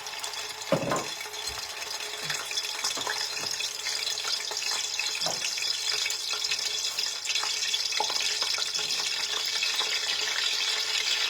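Catfish sizzling in hot red palm oil, a steady crackling hiss, with a few light knocks of a utensil or pot.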